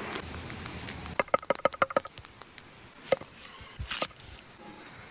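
Chopping with a knife: a quick run of sharp, slightly ringing knocks about a second in, then two single strikes.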